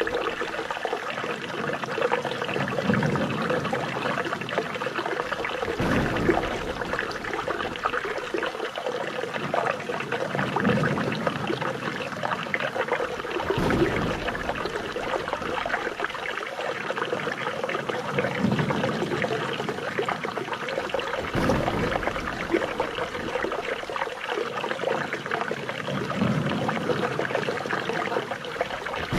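Flowing water trickling and splashing steadily, with a faint swell that comes back about every eight seconds.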